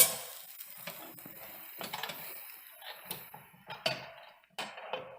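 Kitchen utensils knocking and clinking against a pan, with a sharp knock at the start and a handful of lighter taps and scrapes after it.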